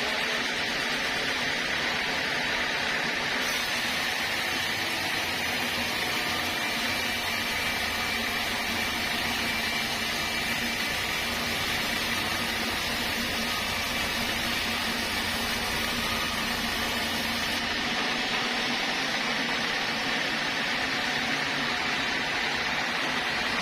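Sawmill saw running steadily on old teak wood, with a steady high tone over dense noise. The sound grows fuller from about three seconds in until about three-quarters of the way through.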